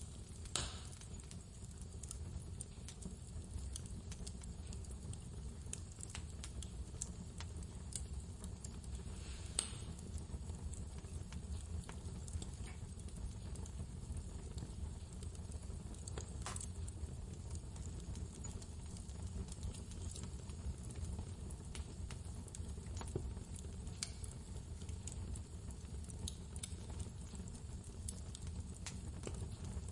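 Wood fire crackling with scattered small clicks and a few sharper pops, over a steady low rumble of blizzard wind.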